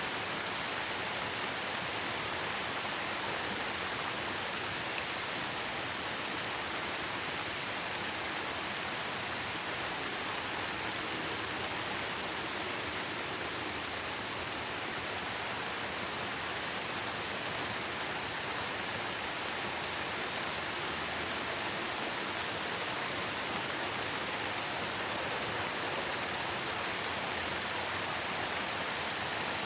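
Steady rain falling, a continuous even hiss with faint patter of drops on a surface.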